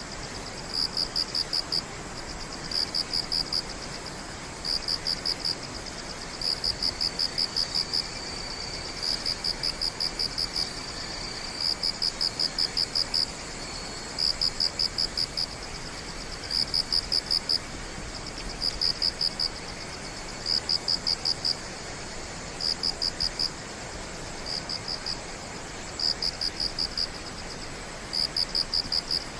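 A cricket chirping in short pulsed bursts, about one burst every two seconds, over steady background hiss. A fainter insect trill runs continuously underneath for a few seconds in the middle.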